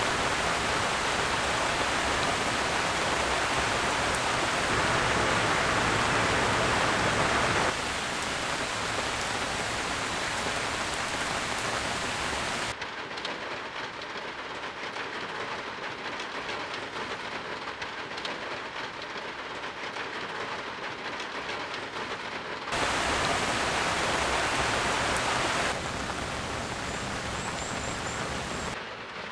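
Heavy typhoon rain pouring down as a dense, steady hiss, in several cut-together takes: the level drops or jumps abruptly about 8, 13, 23 and 26 seconds in.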